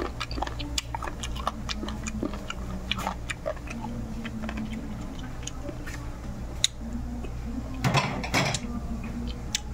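Someone eating chicken feet adobo: irregular small clicks and smacks of chewing, with a denser cluster near the end, over a low steady hum.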